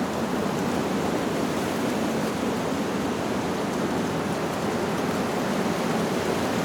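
Steady, even rushing noise from a nature ambience, with no audible change and no wind-chime notes.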